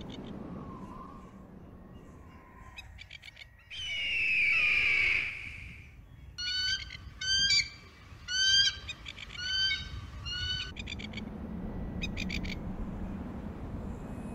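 Bird calls: a long, loud descending scream, followed by a run of about six short repeated calls, each with a high and a lower note. Brief bursts of rapid clicking come before and after, over a low steady hum.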